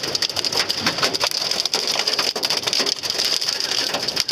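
Hail and heavy rain pelting the car, heard from inside the cabin: a dense, continuous patter of many sharp hits over a steady hiss.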